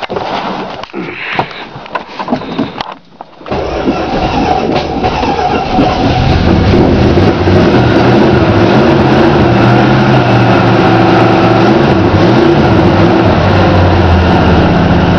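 1969 Plymouth Sport Satellite's 318 two-barrel V8 with dual exhaust starting from cold after sitting all winter. It catches about three and a half seconds in, builds up, and settles into a steady run with the revs wavering slightly up and down.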